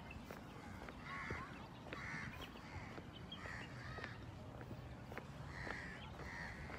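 A bird giving short calls over and over, about one every second or two.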